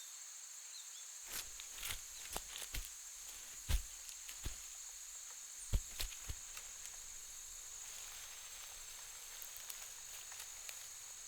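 Forest undergrowth cracking and snapping as Borneo pygmy elephants move through it: about a dozen sharp cracks of breaking twigs in the first six or seven seconds, a few faint ones near the end. A steady high drone of rainforest insects runs underneath.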